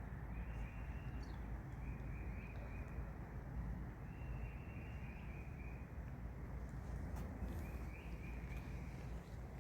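Outdoor ambience with wind rumble on the microphone and a repeated high chirring animal call, short bursts about once a second.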